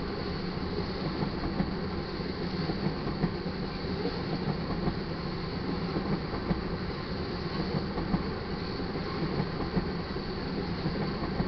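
Railroad tank cars of a crude oil train rolling past at a grade crossing: a steady rumble of steel wheels on rail, with frequent irregular sharp clacks.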